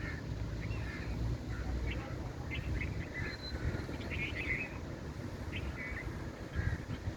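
Birds giving short, scattered calls over a steady low rumble.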